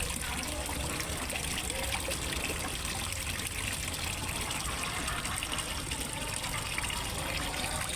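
Steady trickling and splashing of water falling into a fish pond.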